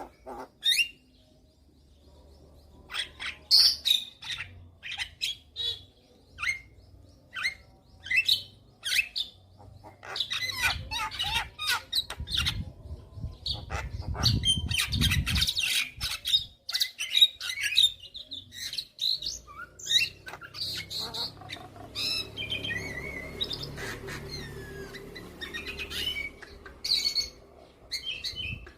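Javan myna (jalak kebo) calling: a rapid series of short, sharp chirps and harsh squawks, denser near the middle and again toward the end. A low rumble sits under the calls for a few seconds in the middle.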